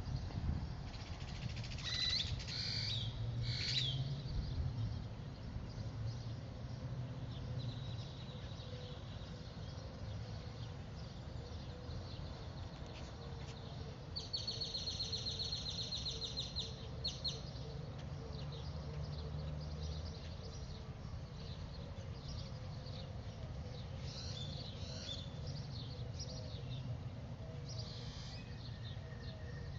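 Songbirds calling in a backyard: scattered high chirps at the start, a fast, even trill midway, and more chirping near the end, over a steady low background noise.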